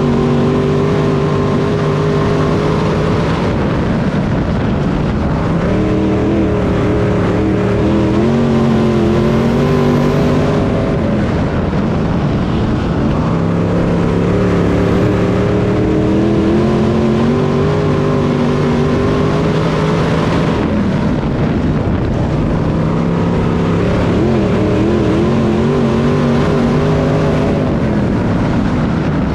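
Race car engines running hard during a race, the engine note climbing and then dropping back in repeated cycles several seconds long, as the throttle is opened on the straights and lifted into the turns.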